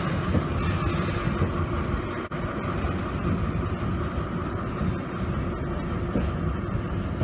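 Freight train of covered hopper wagons rolling past, a steady running noise of steel wheels on the rails.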